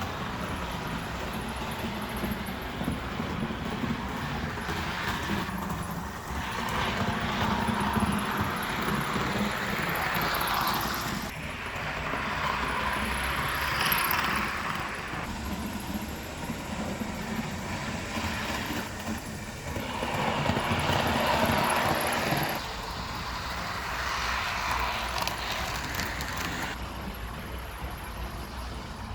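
Athearn HO scale Santa Fe RDC model train with a rubber-band-driven power unit, running on track after repair as a test run. It makes a steady whirring, running noise that swells louder three times as it passes close by.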